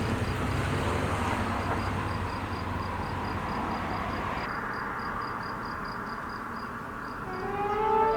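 ÖBB Class 2050 diesel locomotive running past with its museum train: a low, pulsing engine rumble that slowly fades. An insect's steady high, rapid ticking carries on under it.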